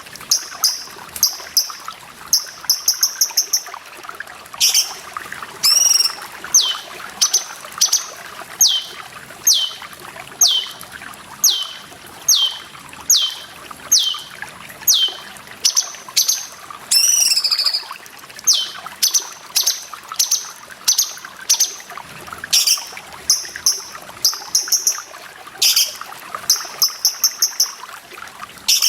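Cucak cungkok songbird calling over steadily running water: a long series of sharp, high, downward-sliding notes about one a second, alternating with quick stuttering bursts of very high notes.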